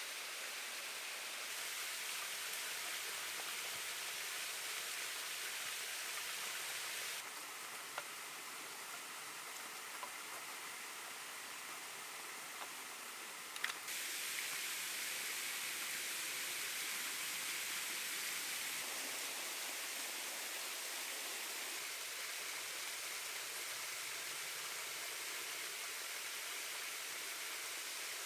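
Steady hissing background noise whose character shifts abruptly twice, with a few faint clicks or knocks.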